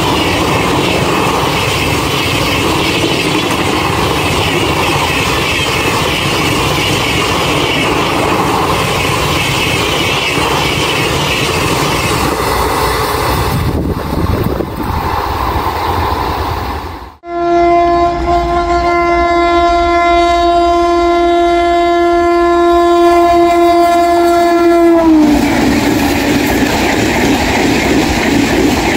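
Indian Railways Rajdhani Express trains running past at speed, with the steady rumble and clickety-clack of the coaches on the rails. About 17 seconds in, an electric locomotive's horn sounds one long steady blast of about seven seconds that dips in pitch as it ends, and then the coaches roll by again.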